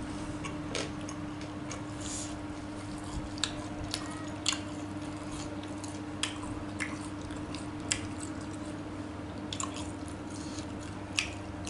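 Close-miked mouth sounds of a person chewing extra-spicy tofu: wet smacks and clicks scattered irregularly, over a steady low hum.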